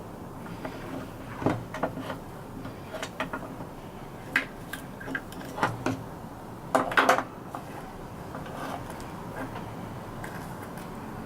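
Scattered clicks and light knocks of small hard objects and tools being picked up and set down on a workbench, with a quick cluster of knocks about seven seconds in.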